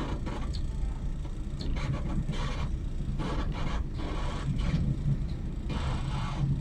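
A train running on the track: a steady low rumble broken by several short scraping, rattling noises.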